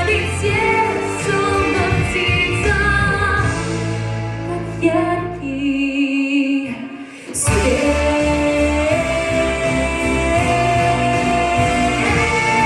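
Pop ballad with a girl singing over a backing track; the bass and drums drop out for about a second just past the middle, then the full band comes back.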